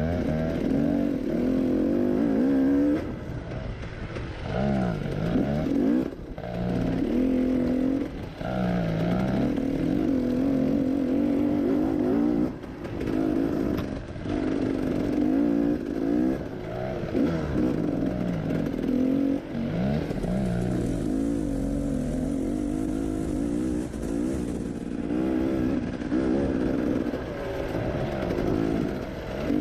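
Dirt bike engine working up and down through its revs on a bush trail. Its pitch keeps rising and falling as the throttle is opened and shut, with brief drops every few seconds where it backs off.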